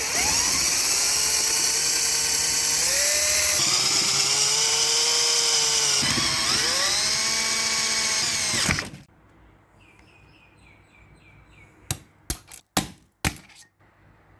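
Electric power drill running for about nine seconds, its motor pitch rising and falling as the speed changes, then stopping abruptly. A few sharp clicks follow near the end.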